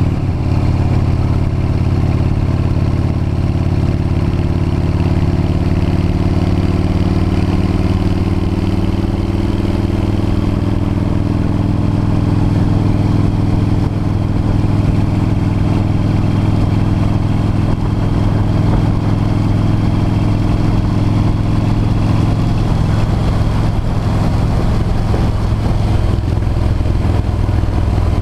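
V-twin motorcycle engine running steadily at cruising speed, its pitch drifting only slightly, heard from a camera mounted on the moving bike.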